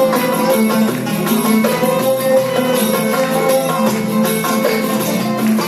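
Turkish classical music (Türk Sanat Müziği) ensemble playing an instrumental passage, with sustained melodic lines over a steady rhythm of percussion.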